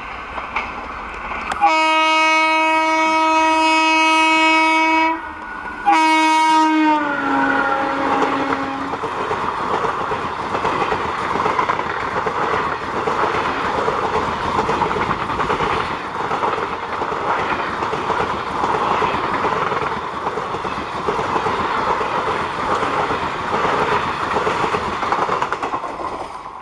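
A WAP-4 electric locomotive sounds its horn in a long chord-like blast, then a second blast that falls in pitch as the train passes. The passenger coaches then rush by with steady wheel clatter on the rails.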